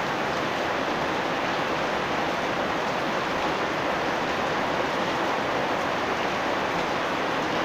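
Steady rainfall: an even, unbroken hiss of rain that neither swells nor eases.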